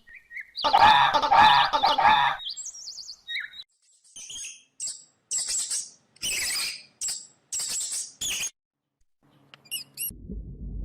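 Bird calls: a loud harsh call lasting under two seconds, then a string of short high chirps, and a few faint high cheeps near the end.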